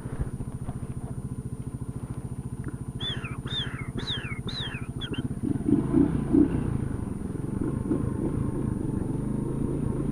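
Motorcycle engine running at low revs with a steady, rapid putter that grows a little louder after about six seconds. Five short, high, falling cries sound over it about three to five seconds in.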